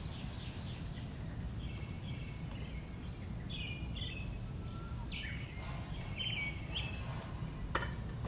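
Small birds chirping in short, repeated calls over a steady low rumble of background noise, with one sharp click near the end.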